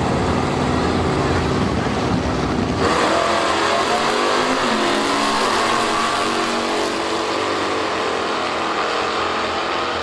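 Drag racing car engine: a low rumble, then about three seconds in a sudden full-throttle launch, the engine note jumping up and then climbing and dipping as the car accelerates away down the strip.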